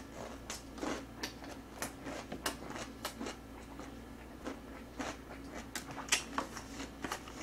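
Close-miked chewing of food, an irregular run of short wet mouth clicks and smacks.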